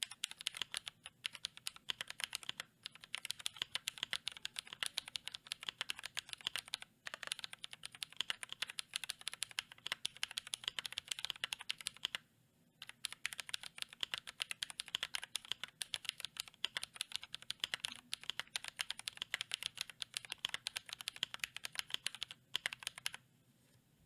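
Fast typing on a GMMK Pro mechanical keyboard with lubed Glorious Panda tactile switches on a polycarbonate plate and GMK keycaps: a dense, clacky run of keystrokes with a few short pauses, stopping shortly before the end.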